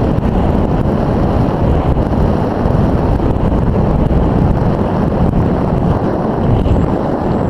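Loud, steady wind buffeting a small action camera's microphone, a deep rumbling rush with no clear motor tone over it.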